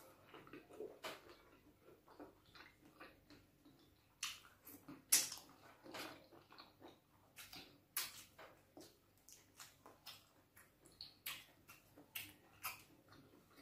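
Close-miked eating sounds from a mouthful of fufu and bitter leaf soup eaten by hand: soft wet chewing and lip smacks, an irregular run of short clicks with a louder smack about five seconds in.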